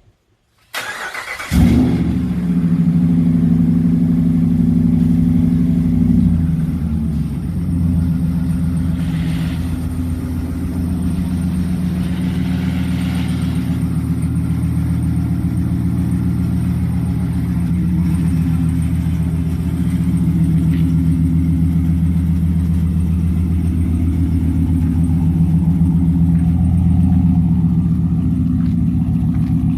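2020 Ram pickup engine with a Borla S-Type cat-back exhaust starting: the starter cranks briefly about a second in, the engine catches with a flare of revs, runs at a fast idle for several seconds, then settles to a steady, lower idle.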